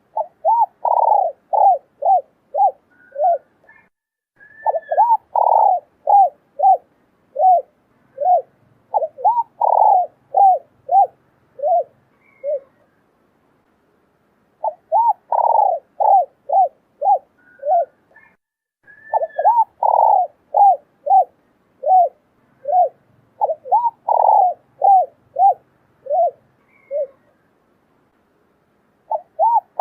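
Female spotted dove cooing in rapid runs of short coos, about two a second, broken by pauses of a second or two. The same call sequence seems to come round again about halfway through.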